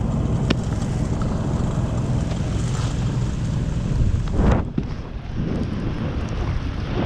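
Wind buffeting the microphone as a steady low rumble and rush, with a louder swell about four and a half seconds in.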